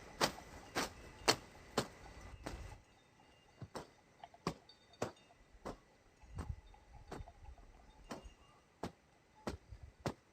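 A hand tool chopping weeds, striking the ground in a steady rhythm of sharp knocks a little under two a second, the pace slowing slightly about a third of the way in.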